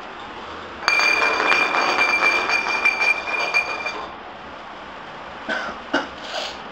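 A bell ringing with a rapid metallic rattle for about three seconds, starting and stopping abruptly, followed by a few short knocks near the end.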